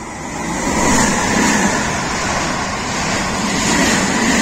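Double-deck electric passenger train passing through the station at speed. It makes a steady rush of wheels on rail and air that swells to full loudness about a second in and stays loud, with a faint whine.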